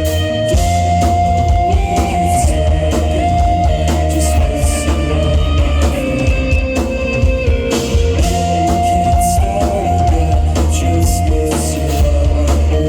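Live rock band playing an instrumental passage, with electric guitar, bass and drum kit.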